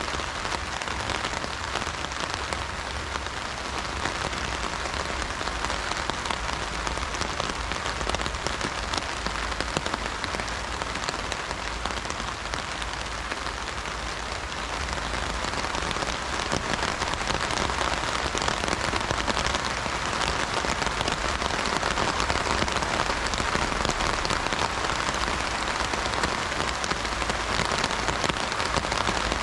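Rain falling on an umbrella: a dense, steady patter of countless drops, growing a little louder about halfway through.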